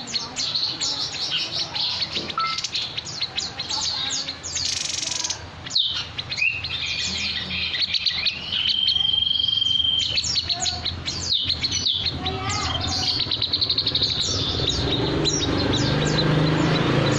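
Songbird calling with rapid high chirps and trills. A single long, level whistle comes about halfway through.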